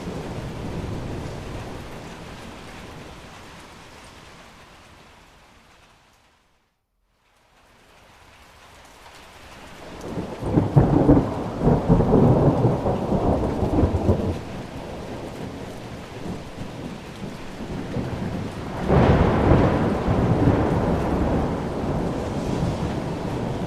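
Thunder rumbling over steady rain, with two loud rolls, one about ten seconds in and one near the end. Near the start the rain fades away to silence for a second or so, then swells back.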